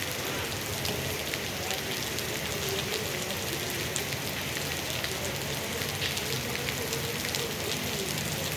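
Steady rain falling, an even hiss with scattered sharp drop taps.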